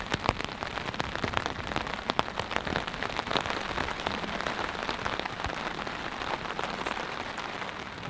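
Steady rain falling on a tarp overhead, with many separate drops striking it sharply.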